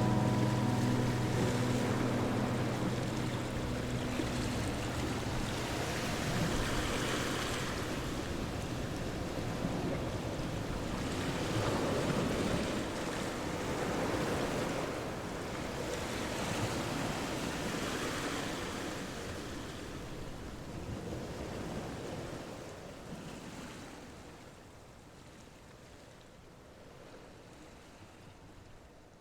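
Wind rushing on the microphone, swelling and easing, then fading away over the last several seconds.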